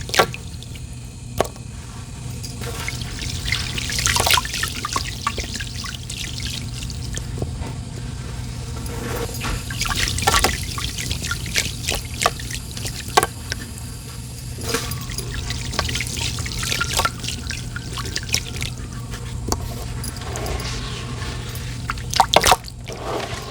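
Sand and water poured by hand into water: a running trickle with irregular drips and small splashes, a few louder splashes near the end.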